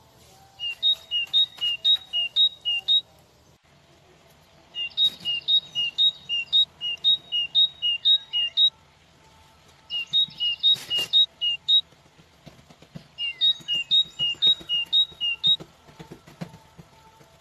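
A bird singing a repeated two-note song, high then low, in phrases of a few seconds with pauses between them, with a few soft knocks and clicks underneath.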